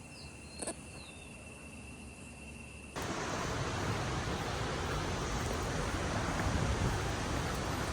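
Quiet outdoor ambience with a steady high insect drone, a few short bird chirps and a single click. About three seconds in it cuts abruptly to the steady rushing noise of La Fortuna Waterfall.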